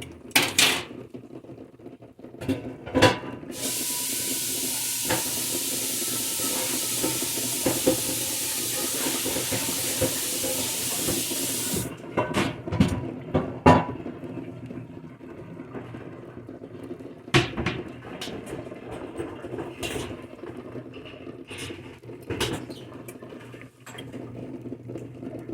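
Kitchen tap turned on and left running for about eight seconds, then shut off, with dishes and utensils clinking and knocking around it.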